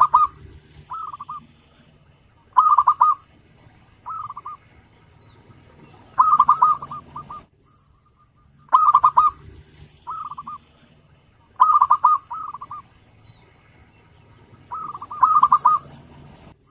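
Zebra dove (perkutut) singing, repeating short rolling cooing phrases with brief pauses between them. Some phrases come in quick pairs.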